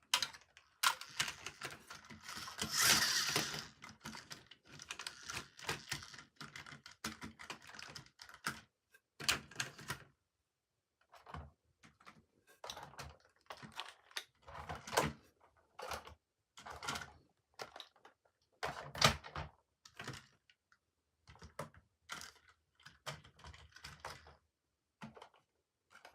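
Toys and their packaging being handled during unboxing: irregular clicks, taps and knocks, with a longer rustle about two to four seconds in.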